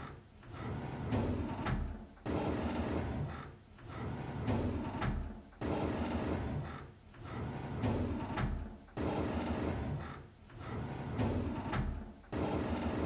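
A drawer being slid open over and over, a scraping slide of the drawer on its runners that starts abruptly, swells and fades, repeating about every three and a half seconds.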